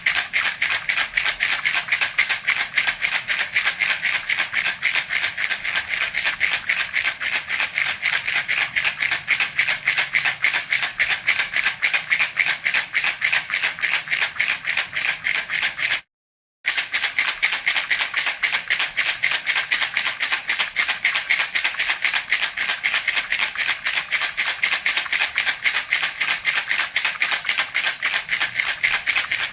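Baby's rattle (jhunjhuna) shaken rapidly and evenly, a continuous bright rattling of many strokes a second. It cuts out for about half a second near the middle, then resumes at the same pace.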